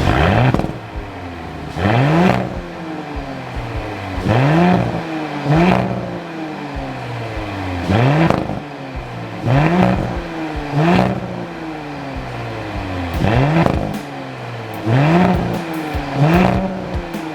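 Audi SQ5 Sportback's V6 engine through an aftermarket tuned exhaust set to its loudest, revved in about ten quick blips, each rising sharply and dropping back to idle.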